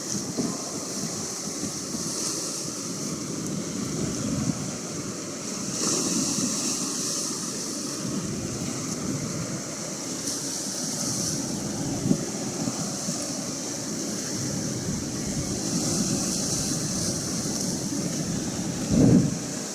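Atlantic Ocean waves washing in, a hiss of surf that swells and fades every few seconds, with wind on the microphone and a short, louder low gust near the end.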